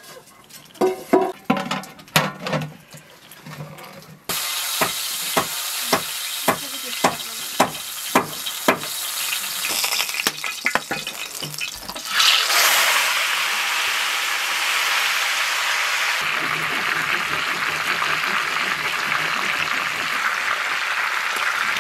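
Food frying in hot oil. A run of regular knocks, about two a second, is followed about twelve seconds in by a sudden louder burst of sizzling that settles into a steady sizzle.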